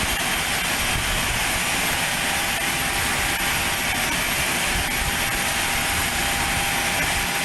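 Small propeller aircraft's engine at takeoff power as the plane departs, a steady, unbroken drone.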